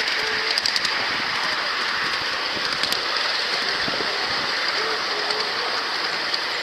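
A moving train's steady running noise, heard from aboard: wheels rolling on the rails, with scattered light clicks throughout.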